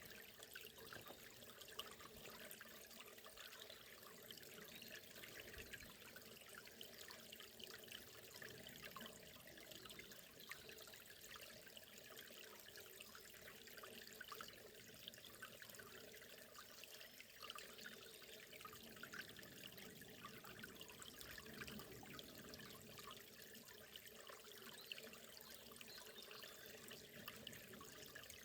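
A forest river running and trickling quietly, as a steady, unbroken stream of water sound.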